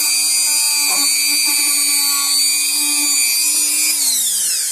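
A small high-speed electric rotary tool runs at a steady high-pitched whine while cleaning a wire terminal. Near the end it is switched off and its pitch falls as it spins down.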